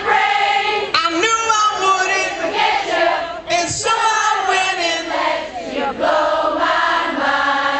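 A large crowd of many voices singing and chanting together, overlapping and loud.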